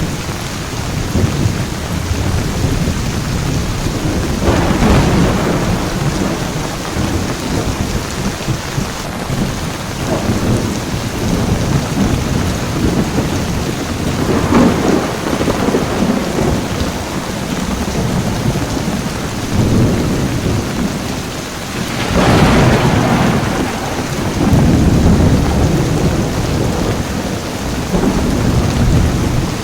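Thunderstorm: heavy rain falling steadily while thunder rumbles through it, with bigger rolls of thunder about four and a half, fourteen and a half and twenty-two seconds in.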